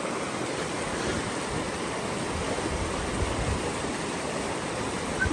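Rushing creek water flowing fast and steadily, an even rush with no breaks.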